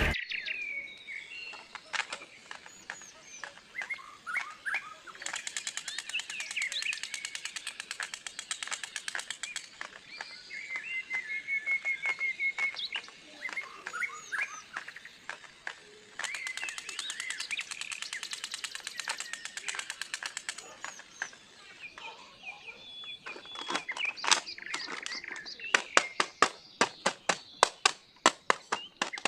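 Small birds chirping and twittering, with many sharp clicks and crackles scattered through it that come thick and fast near the end.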